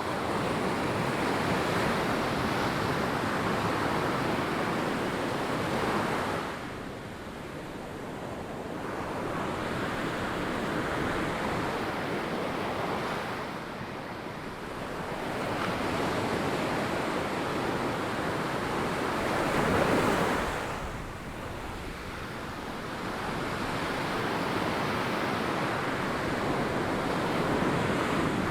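Ocean waves breaking and washing up a sandy beach, the surf swelling and ebbing every six or seven seconds, with the loudest break about twenty seconds in.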